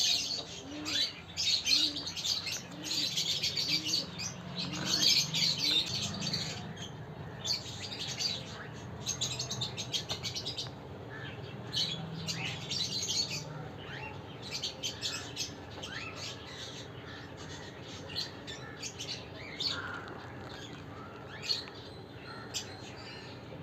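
Many small aviary birds chirping and twittering in busy bursts, over a faint low background hum.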